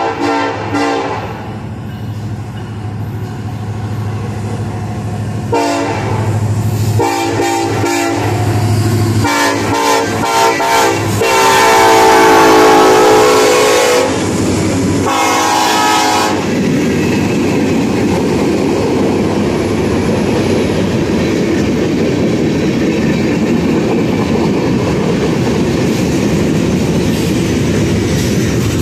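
Diesel freight locomotives approach and pass, sounding the air horn in a series of blasts, with the loudest long blast as they go by and the last ending about sixteen seconds in. After that, the freight cars roll past with a steady clatter of steel wheels on the rails.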